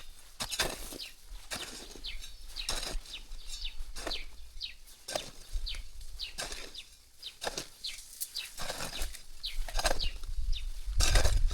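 A jembe (digging hoe) striking and scraping into soil in irregular strokes, roughly one a second. Short high chirps, typical of small birds, run between the strokes.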